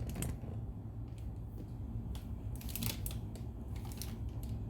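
Scattered short clicks and rustles of things being handled, over a low steady hum.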